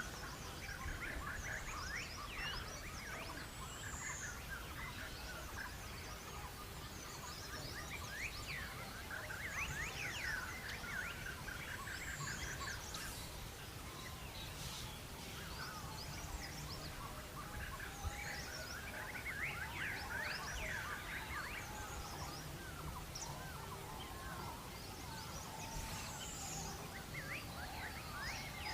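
Many birds chattering and calling together: dense, overlapping short chirps and trills, with a high down-slurred whistle three times.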